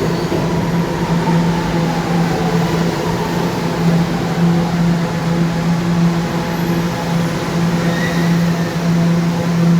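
Subway train at a station platform: a steady electrical hum, with a whine falling in pitch over the first few seconds as the motors wind down.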